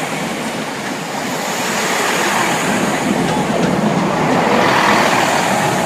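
A train moving along the rails, a rushing wheel-and-track noise that builds gradually to its loudest about five seconds in, then begins to ease.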